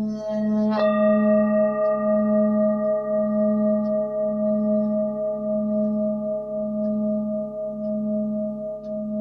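Himalayan singing bowls ringing in overlapping sustained tones, one bowl struck about a second in. The deepest tone swells and dips in a slow pulse about once a second.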